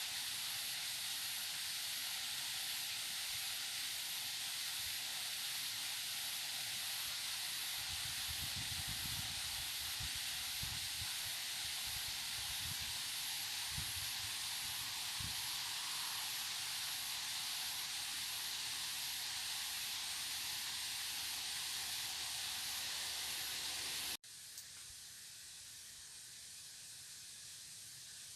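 Steady hissing noise, like rushing water or wind, with a few low bumps in the middle. Near the end it cuts off abruptly to a quieter, duller hiss.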